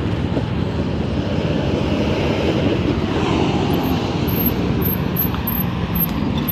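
Steady noise of road traffic, with cars and buses driving past close by.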